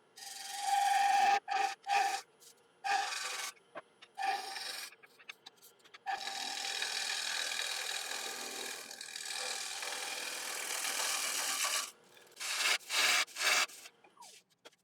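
Turning gouge cutting the inside wall of a sycamore bowl spinning on a lathe: a scraping hiss in several short cuts, one long cut of about six seconds, then a few more short cuts. It is a light finishing pass to clean up the wall.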